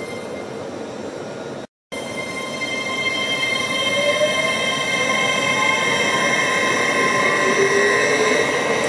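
Hitachi Class 803 electric train running past close by: a rumble of wheels on rail under a whine of several steady high tones, with a tone gliding up and down and the whole growing louder from about three seconds in. The sound drops out completely for a moment near two seconds in.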